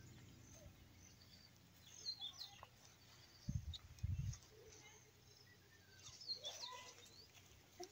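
Quiet outdoor ambience with faint birds chirping in short bursts, and a few brief low thumps about three and a half and four seconds in.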